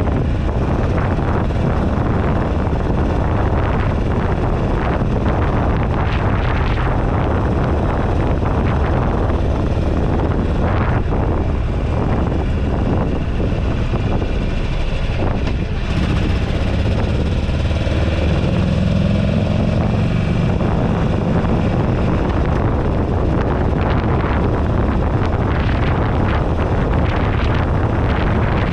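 Buell Ulysses XB12XT's air-cooled V-twin running under heavy wind buffeting on a handlebar-mounted camera microphone while riding. Just past halfway there is a brief dip, then the engine note rises for a few seconds.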